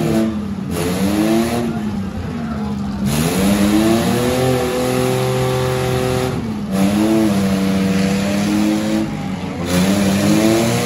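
Demolition derby car engines revving hard, the pitch climbing and dropping again and again as the drivers floor it and let off while the cars push against each other.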